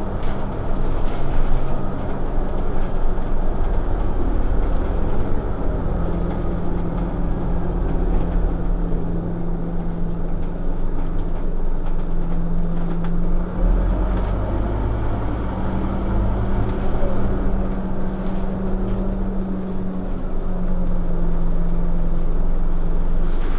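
Scania OmniCity single-deck bus heard from inside the cabin while driving: the engine runs under a steady rumble of road and body noise, its note shifting up and down a few times.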